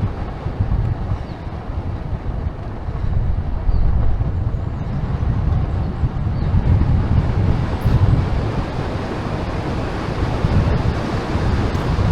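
Wind buffeting the microphone of a camera on a moving bicycle: a steady, gusty rumble.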